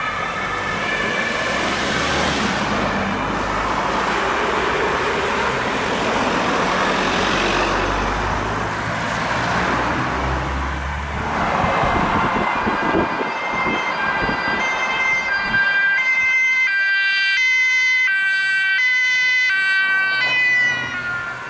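Police car on an emergency run: the engine pulls away hard at full throttle with loud road and tyre noise. In the second half its German two-tone siren (Martinshorn) sounds loudly, switching between two notes roughly every 0.6 s, and the pitch drops near the end.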